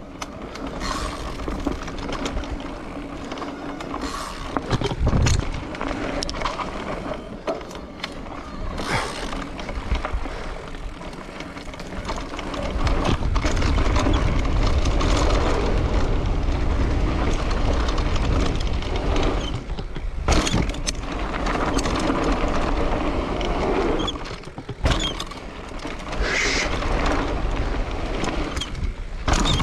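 Wind buffeting the microphone and road noise while riding a bicycle, with a deep rumble that grows louder about halfway through and a few sharp clicks.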